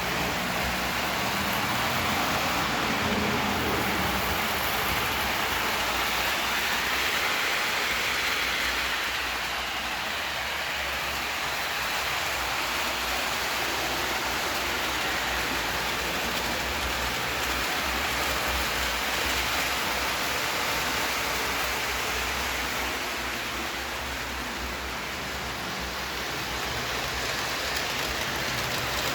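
Lionel O-scale model train running on its track: a steady rumble of wheels and motor that slowly swells and eases.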